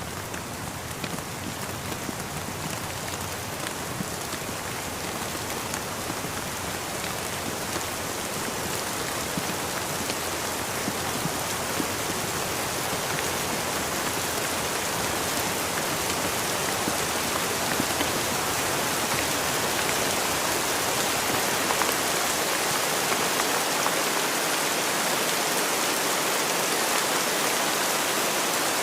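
Steady rain falling: a dense, even hiss with fine scattered drop taps, growing gradually louder.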